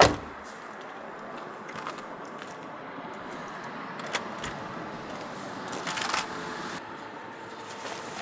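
One loud thump right at the start, followed by a steady hiss with a few soft clicks and a short stretch of rustling or crunching about six seconds in.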